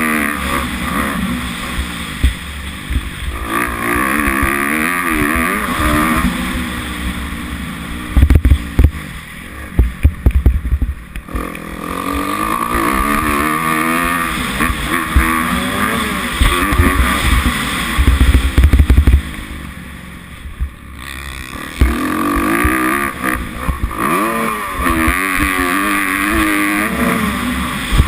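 Kawasaki KX250F dirt bike engine, a 250 cc four-stroke single, being ridden hard, its pitch rising and falling again and again as the throttle is worked and gears change. Several sharp loud knocks are heard about a third of the way in and again about two-thirds in.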